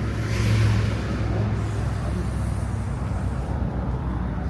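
Street traffic with a steady low rumble; a vehicle passes close in the first second or so, its engine hum and tyre noise swelling and then easing off.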